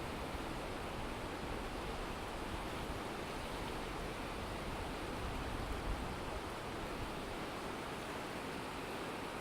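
Water pouring steadily over a river weir, the river running high after a typhoon.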